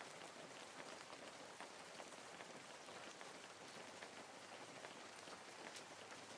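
Faint, steady patter of light rain, a soft hiss dotted with fine drop ticks.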